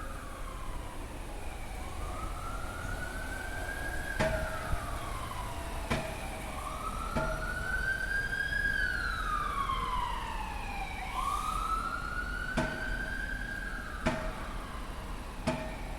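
A siren wailing, its pitch rising and falling slowly about four times, over the steady low idle of a bus engine warming up. A few sharp clicks are heard among it.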